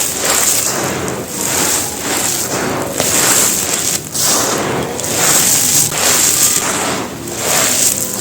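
Big chunks of soft, gritty material crunching and crumbling by hand, in a run of crunches about one a second.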